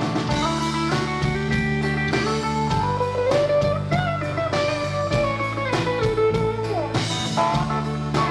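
Live country-rock band playing an instrumental break: a lead guitar plays a melody with bending notes over a steady drum beat.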